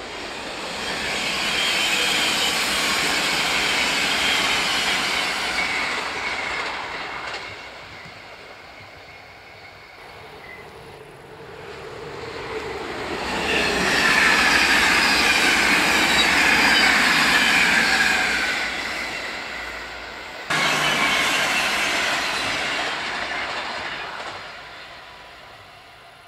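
NS double-deck electric passenger trains (VIRM) passing at speed: rail running noise with a high whine that slides down in pitch, swelling and fading twice. Past the middle it cuts suddenly to another loud pass-by that fades away.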